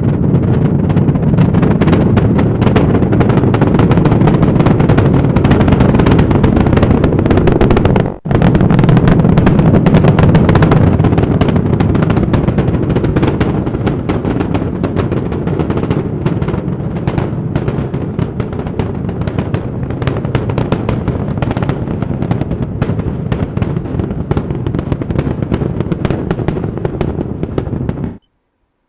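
Launch roar of the Super Heavy booster's 33 Raptor engines during ascent: a loud, deep rumble full of rapid crackling. It drops out briefly about eight seconds in and cuts off abruptly near the end.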